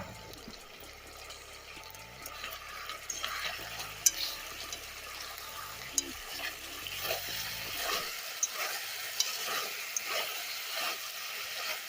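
Stew chicken sizzling in the pot as it is stirred, with scattered sharp clicks through the steady frying hiss.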